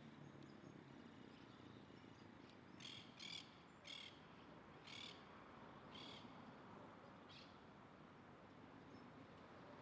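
A bird calling: a series of about six short, high-pitched calls over some four seconds, roughly one a second, the last ones fainter.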